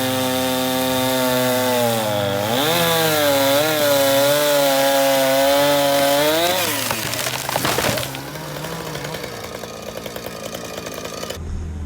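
Two-stroke chainsaw at high revs cutting into a tree, its pitch dipping and wavering as the bar loads up in the wood, then falling away about seven seconds in as the cut eases off, leaving a quieter running sound.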